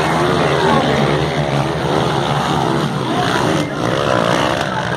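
Several motocross dirt bike engines running at once, their pitch rising and falling as the riders rev and shift, over a steady low drone.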